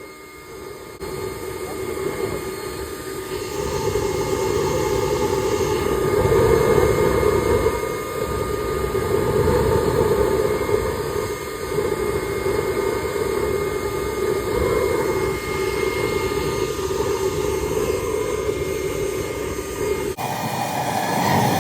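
Brake cleaner burning on a BMW differential housing: a steady, loud fire roar that carries on without letting up.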